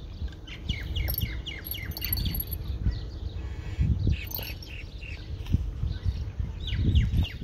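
Small birds chirping in quick runs of short falling notes, several a second, in three bursts, over a low rumble with occasional dull thuds on the microphone.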